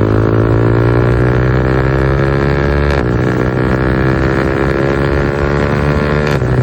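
Yamaha R15 V4's 155 cc single-cylinder engine accelerating under load. The exhaust pitch climbs steadily, then drops at a gear change about three seconds in, climbs again, and drops at another shift near the end.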